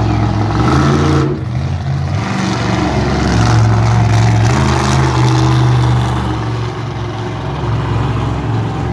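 Monster truck engine revving hard, its pitch stepping up and down, loudest in the middle.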